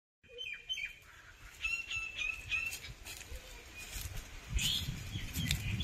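Short, high bird calls repeated in quick succession: a couple about half a second in, then a run of about five near two seconds in. A low rumble sets in near the end.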